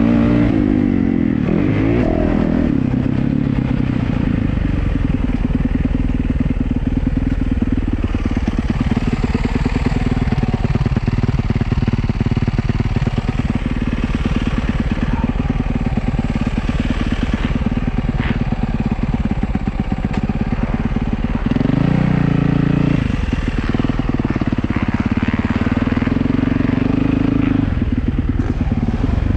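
Yamaha YZ450F's single-cylinder four-stroke engine under riding load, its revs climbing and dropping repeatedly through throttle and gear changes.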